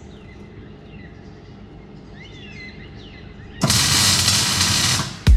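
Faint bird chirps over a low, steady background, then about three and a half seconds in a loud burst of hissing noise lasting about a second and a half, followed by a sharp hit near the end.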